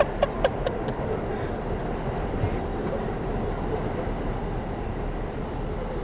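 New York City subway N train running along the track, a steady rumble of wheels and car noise, with a few sharp clicks in the first second.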